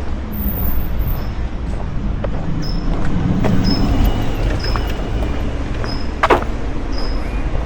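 Steady low outdoor rumble with a short, high chirp repeating about every two-thirds of a second from about two and a half seconds in, and one sharp click about six seconds in.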